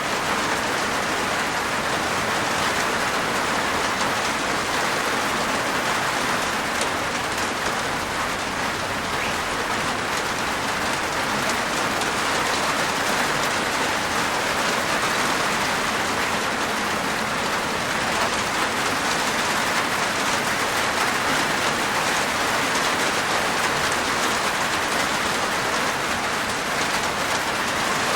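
Steady rain falling on a rooftop, a dense even patter of drops.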